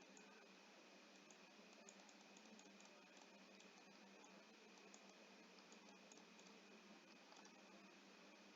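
Near silence: faint recording hiss with a steady faint high hum and a few tiny scattered clicks.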